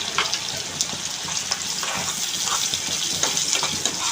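Chopped onions and whole spices (cinnamon, bay leaves, cardamom) sizzling in hot oil in a pan, with a steady hiss and scattered crackles.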